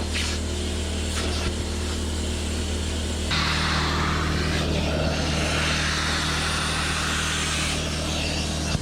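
A small motor running steadily with a low hum. About three seconds in, a louder airy hiss starts and the hum's pitch shifts, as when a machine takes on load or air starts flowing.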